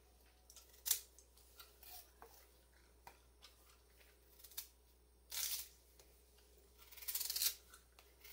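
Faint scrapes of a kitchen knife peeling sweet potato held in the hand: a few short strokes a second or more apart, the longest near the end.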